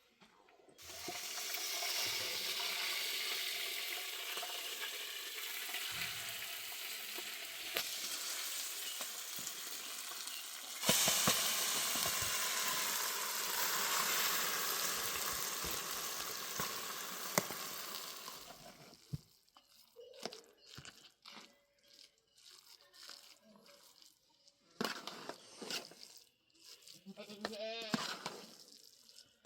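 Food sizzling in hot oil in a pan. The sizzle starts about a second in, gets louder around eleven seconds, and dies away a little before twenty seconds, leaving a few faint scattered short sounds.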